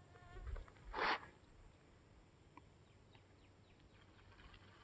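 Hot water going into a camping meal pouch: a short noisy burst about a second in, with a few faint knocks around it. After that there is only faint background with scattered light ticks.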